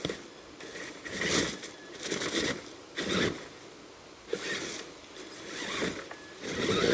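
Electric Tamiya TXT-2 RC monster truck driving in short bursts, its motors whining up and down while the tyres scrape and rasp through sticks and brush, about five bursts.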